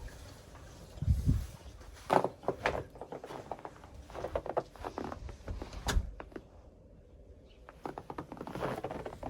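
Footsteps crunching in fresh snow, an uneven series of crunches and knocks with a couple of low thumps.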